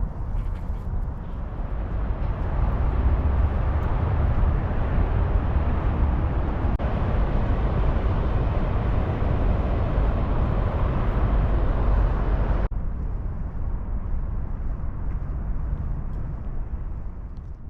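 Steady outdoor rumbling noise, heaviest in the deep low end. It cuts abruptly about two-thirds of the way through, carries on at a slightly lower level, and fades out at the end.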